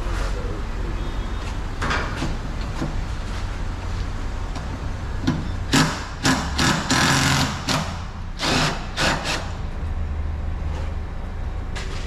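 Exhaust work in a muffler shop: a steady low hum, with a cluster of short, loud, hissing bursts from about six to nine seconds in.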